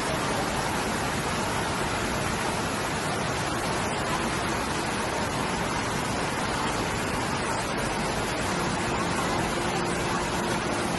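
Water fountain splashing: a continuous, even rush of falling water at a steady level. A faint low hum joins in near the end.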